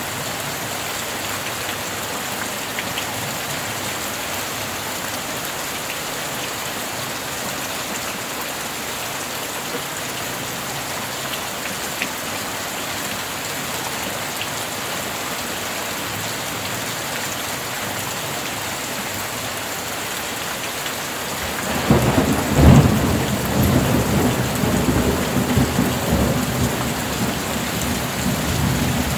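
Steady rain falling. About twenty seconds in, a thunderclap cracks and rolls into a long low rumble over the rain.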